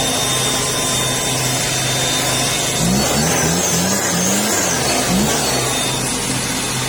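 Engine-driven blower running steadily, a constant motor hum under a rush of air. It is blowing sandstorm dust off chili plants. About halfway through, the engine note wavers up and down several times for a couple of seconds.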